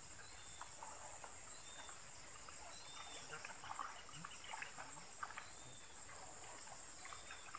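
Insects chirping in a steady, high-pitched chorus with a fast, even pulse. A few faint short high calls sound over it.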